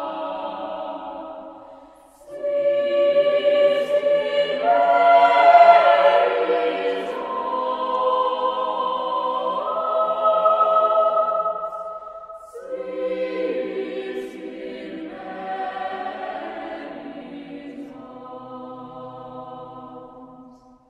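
Choir singing slow, held phrases as background music, with short pauses between phrases about two seconds in and again about halfway through.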